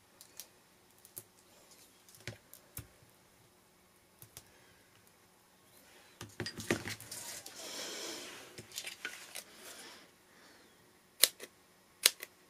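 Paper crafting sounds: scattered small taps and clicks, about four seconds of paper rustling midway, then three sharp clicks near the end.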